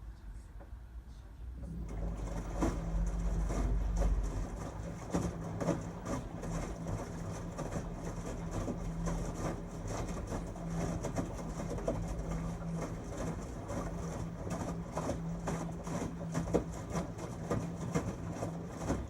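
LG Tromm WD-CR101C front-loading drum washing machine turning its drum during a quick-wash cycle. The motor comes on about two seconds in with a steady hum, and the tumbling load makes many irregular knocks until the drum stops near the end.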